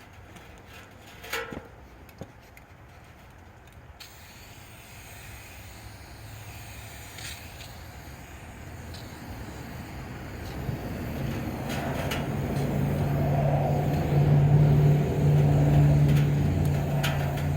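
A vehicle engine running with a steady low hum that grows louder through the second half. A short sharp knock comes about a second and a half in.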